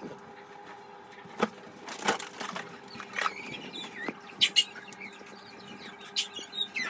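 Irregular clinks, taps and short scrapes of utensils and bowls while dog food is mixed and portioned, over a faint steady hum.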